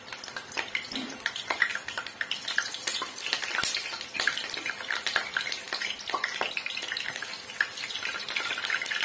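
Cauliflower florets frying in hot mustard oil in a kadai: a steady sizzle with many sharp crackles and pops, growing fuller as more florets are dropped in.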